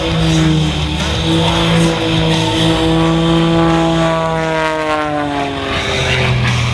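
A propeller aircraft flying past, its engine note falling steadily in pitch as it goes by, over rock music.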